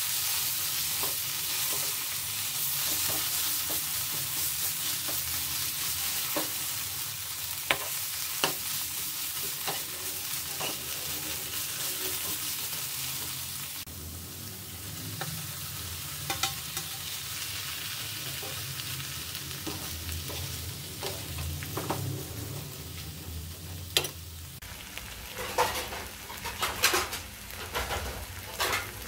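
Onions, dried red chillies and coconut paste sizzling in a nonstick frying pan while a steel spoon stirs and clicks against it. The sizzle quietens about halfway through as chopped tomatoes go in, and the spoon clicks come in quick clusters near the end.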